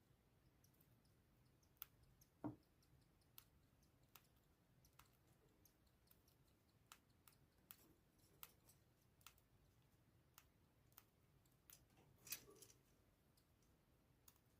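Faint, irregular beak clicks of cockatiels, roughly one every half second to second, with a soft thump a couple of seconds in and a short rustle near the end.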